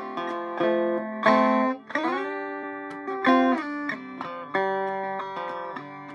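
Circa 1936–37 Vega electric banjo picked in mountain minor tuning: a run of plucked notes that ring on, with louder accented notes about a second and three seconds in.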